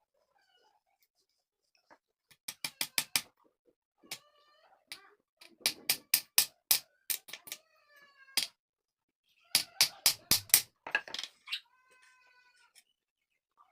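Short pitched calls from a pet animal, three in all, between quick runs of sharp clicks.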